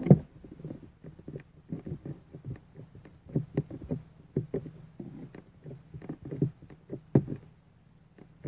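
Homemade white glitter slime squeezed and folded in the hands, making irregular soft clicks and little pops of trapped air. There is only a little clicking, and it is quiet.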